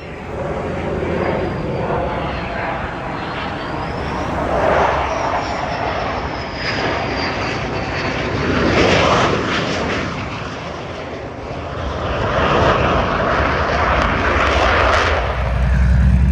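Airplane engine noise that swells and fades several times as aircraft fly by. A faint high whine drifts down in pitch over the first several seconds.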